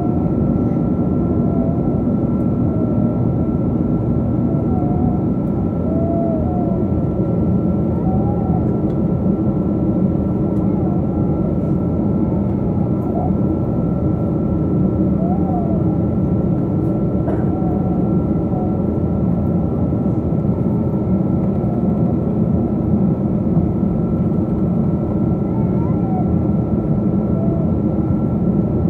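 Steady jet cabin noise inside a Boeing 777-200 airliner: a constant low rush of the engines and airflow with a steady high whine over it, and faint voices in the background.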